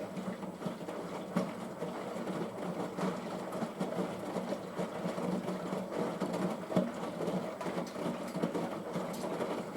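Washing machine drain pump switching on and running with a steady hum over irregular rushing water, pumping out the pre-wash water.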